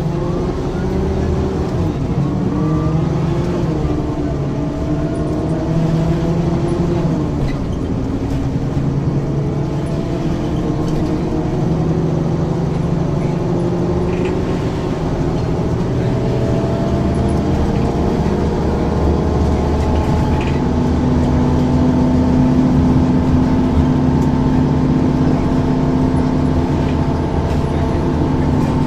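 Ikarus 435 articulated bus with ZF automatic gearbox under way, its diesel engine pulling steadily while the engine note climbs slowly as the bus gathers speed.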